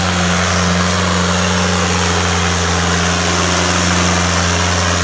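65 hp Sonalika tractor's diesel engine running steadily at an unchanging pitch while pulling a disc harrow (tavian) in a pulling contest.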